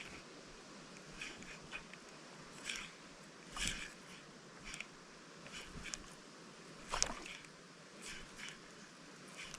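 Faint, irregular rustling with scattered small clicks, one sharper click about seven seconds in.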